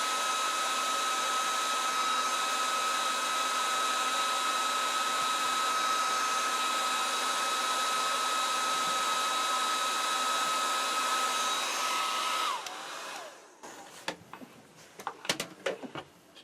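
Heat gun blowing hot air onto heat-shrink tubing, a steady rush of air with a steady whine. About twelve seconds in it is switched off and the whine falls away as the fan spins down, followed by a few light clicks and knocks of handling.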